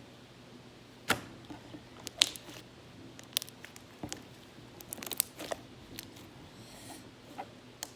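Slime being squished and pulled by hand, giving an irregular run of sharp clicks and small pops. The loudest pops come about one and two seconds in, with a cluster near the middle.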